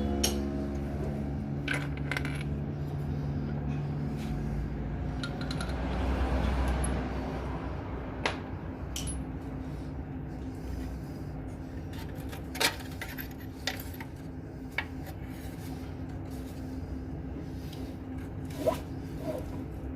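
Sharp metallic clinks of hand tools or loose metal parts, about eight of them scattered through the stretch, with some scraping, over a steady low hum. A running engine hums at the start and fades out within the first few seconds.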